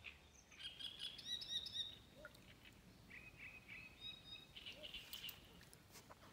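Faint birdsong: small birds singing short chirping phrases, once about half a second in and again around three seconds in, with a few faint clicks near the end.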